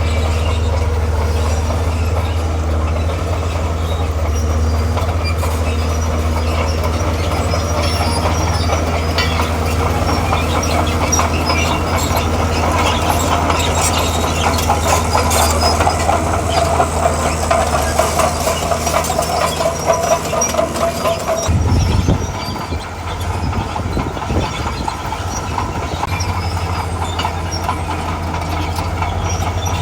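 Komatsu D41P crawler bulldozer's diesel engine running steadily with its steel tracks clanking and squealing as it moves. Just past two-thirds of the way through the squeal stops and the engine note dips for a moment before settling back.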